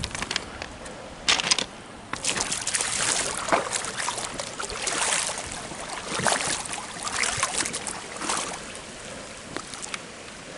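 Rainwater runoff running down a rock-lined pond spillway, a steady rushing with irregular louder bursts of noise on top.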